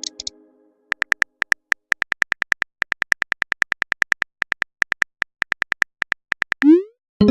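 Phone keyboard typing clicks, rapid and uneven, several a second. Near the end there is a short rising swoosh and the start of a chime, message-app alert sounds.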